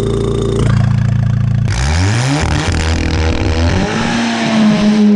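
Audi S3 8V's turbocharged four-cylinder engine, fitted with a bonnet exhaust cut-out, running steadily. About a second and a half in it is suddenly much louder, and the pitch climbs over the next two seconds as it revs up, then it holds a steady high drone.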